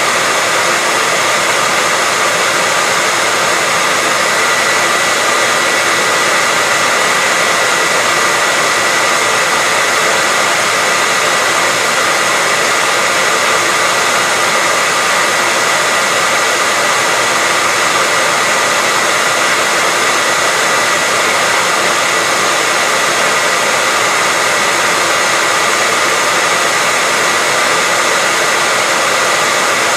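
Hair dryer running steadily: a constant rush of blown air with a steady high whine from the motor and fan, unchanging throughout.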